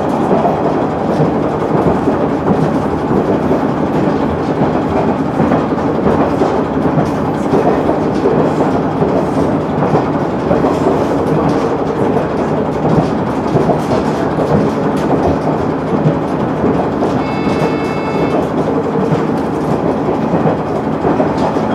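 KiHa 100 diesel railcar running at speed, heard from inside the car: a steady running rumble with the clickety-clack of wheels over rail joints. A brief high ringing tone sounds about three-quarters of the way through.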